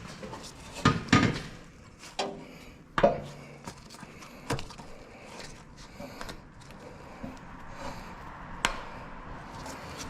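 Scattered knocks and clinks of hard objects being handled: a pair of loud ones about a second in, another about three seconds in, and a few lighter ones after.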